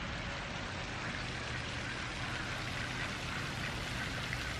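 Steady patter of water, like rain or splashing water.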